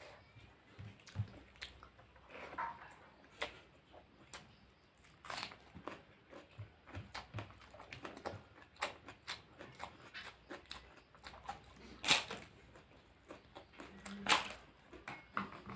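A person chewing and biting food close to the microphone, with irregular wet mouth clicks and crunches; two louder crunches come near the end.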